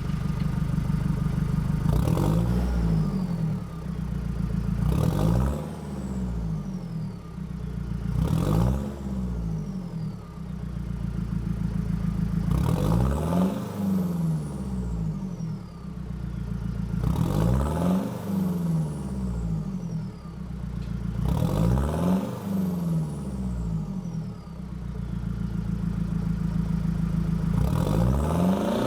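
Nissan Navara D22's YD25 2.5-litre turbo-diesel idling through a 3-inch exhaust and being revved about seven times, each rev dropping back to idle with a high falling turbo whistle.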